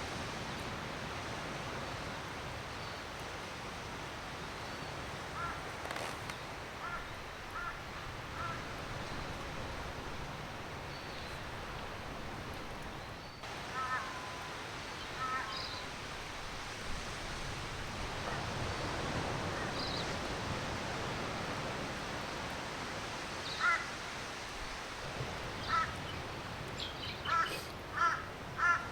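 Birds calling with short, harsh calls, a few scattered at first and then a quick run of repeated calls near the end, over a steady hiss of surf.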